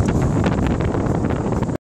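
Loud wind buffeting the microphone: a rushing noise with quick crackles, cutting off abruptly near the end.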